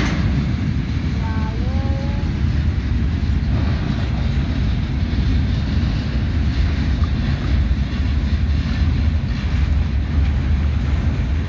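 Ferrosur freight train wagons rolling past on the track: a steady low rumble that does not let up.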